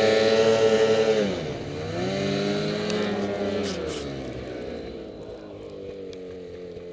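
Ski-Doo MXZ Renegade 800 snowmobile's two-stroke twin engine running at high revs. About a second in it drops off throttle, then revs up again briefly before winding down and fading out.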